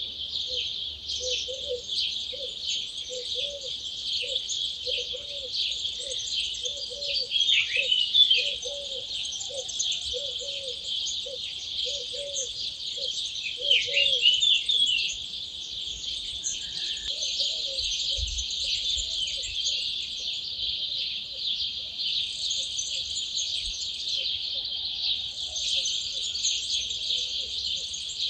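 Dawn chorus: many songbirds singing at once in a dense, high-pitched, unbroken chorus, with two louder song phrases about 8 and 14 seconds in. Under it, a lower call repeats about one and a half times a second for the first half, then fades.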